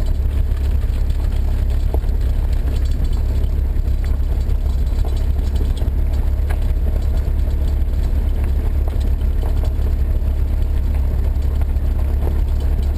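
A car driving at steady speed: a constant low rumble of engine and road noise that holds even throughout.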